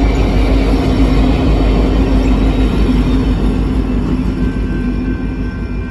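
BNSF SD70ACe diesel-electric locomotives pushing at the rear of a loaded coal train pass close by, their engines and steel wheels on the rails making a loud, dense rumble under a steady hum. The sound eases off slightly near the end as they go by.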